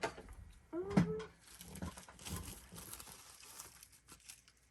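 Rustling of plastic wrap and trading-card packaging being handled, with a short pitched voice-like sound about a second in.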